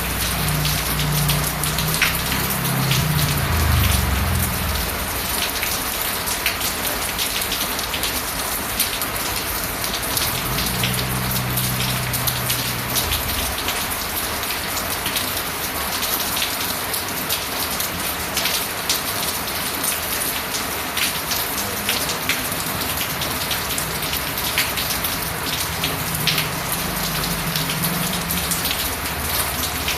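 Steady rain falling on a hard surface, with individual drops ticking through the hiss. A low rumble swells and fades three times underneath.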